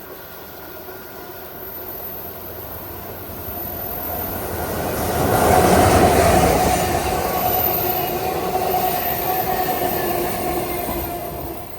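Amtrak Cascades passenger train passing: the rumble of the train builds, is loudest about six seconds in, then holds as the cars roll by, with a steady ringing tone from the wheels on the rails.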